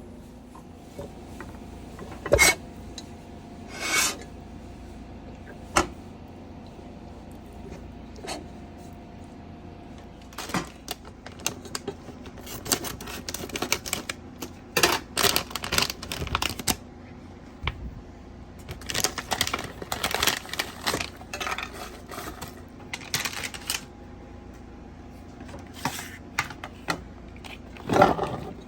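Kitchen clatter of utensils, dishes and pots knocking and scraping: scattered sharp knocks, with two longer runs of rapid clicking, over a faint steady hum.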